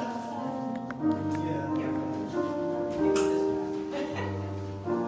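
Instrumental keyboard music: slow, held chords over a low bass note, changing about every second or so.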